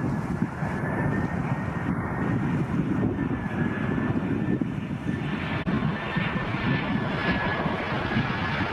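Ryanair jet airliner's engines running on approach to land: a steady rumble with a thin whine held at one pitch, growing louder and brighter near the end.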